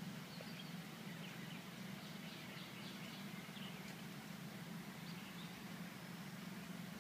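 Birds chirping faintly in short, scattered calls over a steady low hum.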